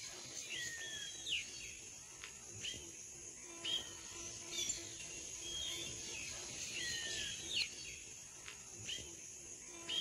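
Wild birds calling: short chirps and quick downward-sweeping whistles, about one a second, over a steady high hiss.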